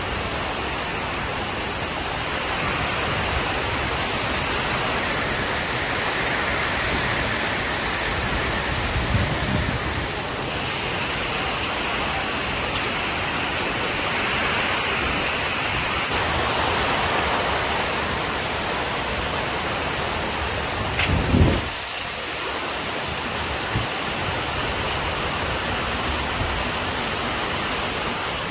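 Heavy rain falling steadily, with a brief low thump about three-quarters of the way through.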